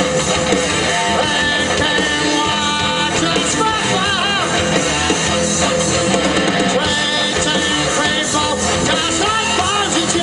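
A live rock band playing loudly, guitar-led, with many bending, wavering notes.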